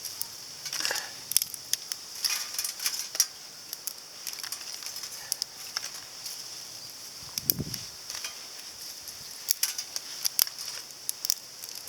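Twigs and kindling being handled and set into a small all-titanium fire grill: scattered sharp clicks, snaps and rustles, with a brief scrape about halfway through, over a steady high hiss.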